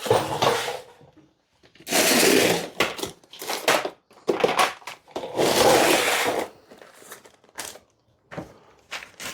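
Rummaging through a box of spare parts and supplies: several bursts of rustling and rattling, with sharp clicks of small items knocking together.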